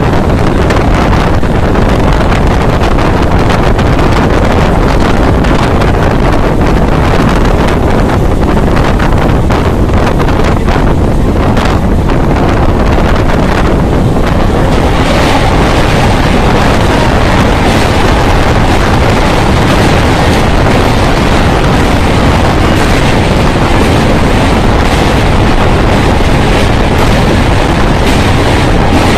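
Wind buffeting the microphone at the open door of a moving electric local train, mixed with the steady running noise of the coaches on the rails. About halfway through, the noise grows brighter and harsher.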